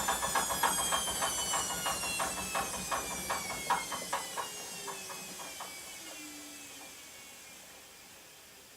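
Washing machine winding down at the end of its spin cycle: the motor's whine falls steadily in pitch and fades, while a rhythmic knocking from the slowing drum gets farther apart and stops about halfway through.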